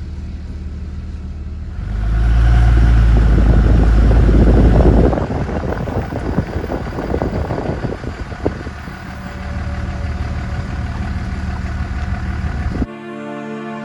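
A vehicle engine idling, then running much louder and deeper for about three seconds from about two seconds in, before settling back to a rougher, uneven run. It cuts off abruptly near the end.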